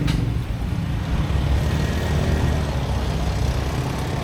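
A steady low engine or motor hum.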